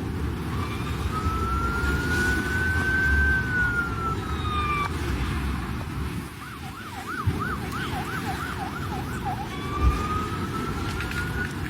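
Emergency vehicle siren: a slow wail that rises and falls, then a quick warble of about three cycles a second, then the wail rising again. Under it runs a steady low rushing noise.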